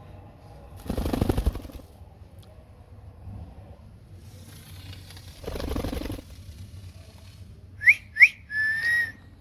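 Ringneck parrot whistling near the end: two short, sharply rising whistles, then a longer steady whistle. Two brief rustling noises come earlier.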